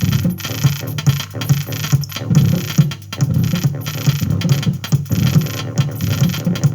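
Glitchy electronic noise from an audio mixing desk with odd cable connections: low, irregular pulsing tones under a hiss, cutting out in short gaps. It comes through a misbehaving first mixer channel.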